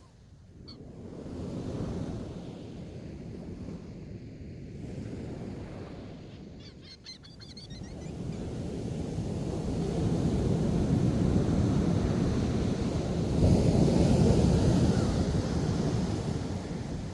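Ocean surf breaking on a beach, with wind on the microphone; the wave noise swells louder in the second half. Brief bird calls come about seven seconds in.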